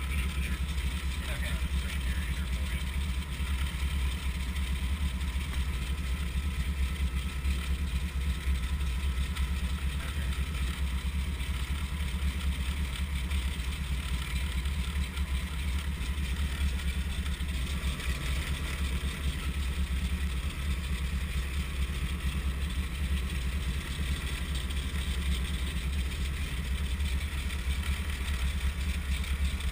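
Brantly B2B helicopter's four-cylinder Lycoming piston engine running steadily at idle, a constant low drone.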